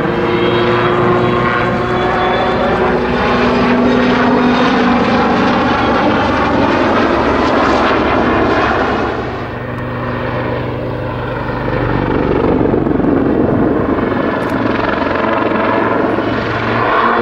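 Army Air Corps Lynx helicopter flying display manoeuvres: a loud, steady rotor and turbine engine sound whose pitch slides up and down as it moves. It fades a little about ten seconds in, then grows louder again.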